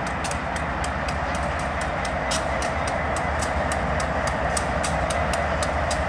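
Diesel freight train approaching, led by a Norfolk Southern GE Dash 9-40CW locomotive with two more diesel units behind: a steady engine rumble with rapid, irregular sharp clicks.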